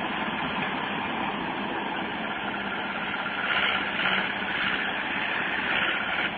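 Tractor diesel engine running steadily under heavy load, with a low hum and a few louder surges.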